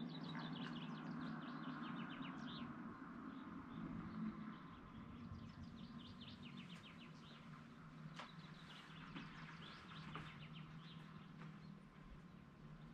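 A small songbird singing, repeating short phrases of quick high notes that sweep downward, over a faint, steady low hum.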